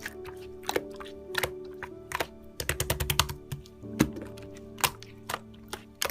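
Soft background music with held notes, over irregular sharp clicks and pops from slime being pressed and worked, with a quick run of clicks about three seconds in.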